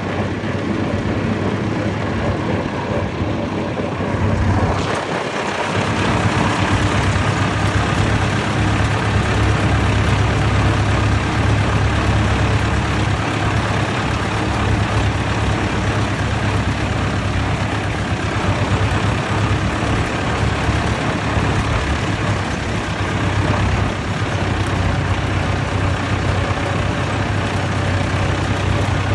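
Vintage tractor engines running steadily at road speed, a continuous low drone that gets louder about five seconds in.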